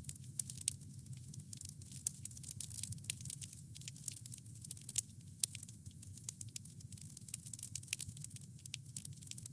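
Wood campfire crackling: a dense, irregular run of sharp pops and snaps over a steady low rumble, with a few louder pops about two and five seconds in.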